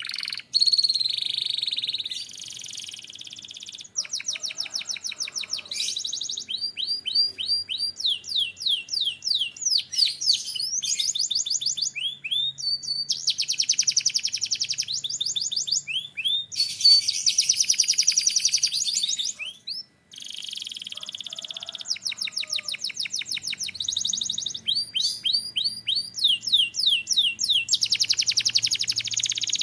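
Domestic canary singing a continuous song of rapid trills, each phrase a run of quickly repeated high notes or sweeping whistles, the phrases changing every second or two, with a brief break about twenty seconds in.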